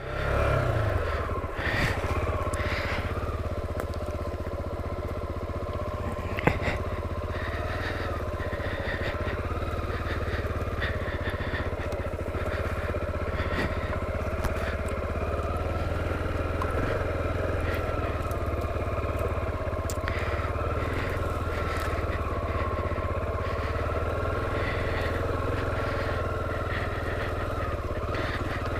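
Honda XR250L's single-cylinder four-stroke engine running steadily with an even note, with a sharp knock about six and a half seconds in.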